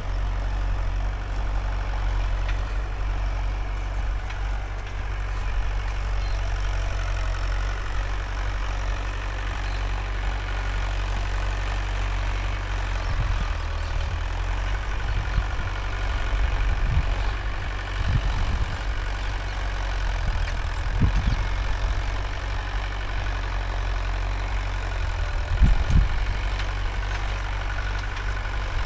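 Mahindra 575 DI tractor's diesel engine running steadily while it pulls a 9-tine cultivator. In the second half there are irregular low thuds as the tractor jolts over clods.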